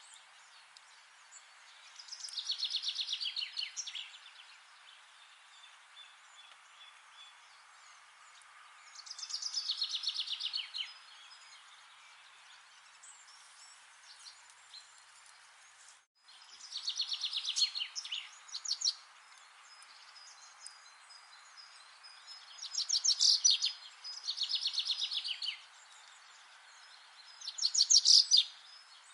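A songbird singing, six phrases in all, each a fast trill of about two seconds that slides down in pitch, a few seconds apart over a steady faint hiss.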